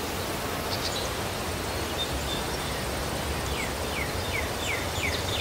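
Outdoor ambience with a steady low rumble, and a bird giving a run of about five quick falling chirps in the second half.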